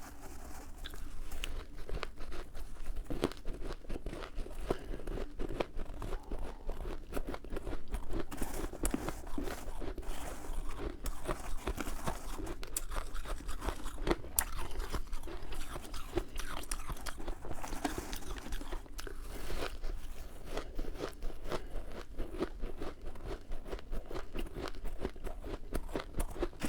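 Someone biting and chewing snowy freezer frost, a continuous run of quick crunches.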